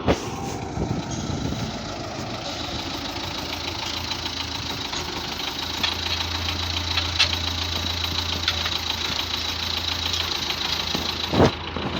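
MTZ-82 tractor's four-cylinder diesel engine running steadily, with a short clunk at the start and another near the end.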